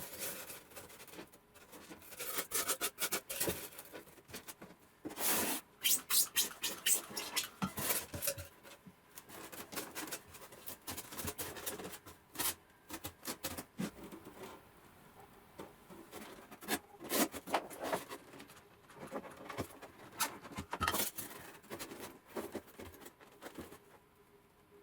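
Polystyrene foam board being worked by hand: irregular rubbing and scraping in short bursts, some sharp and clicky, with brief pauses between them.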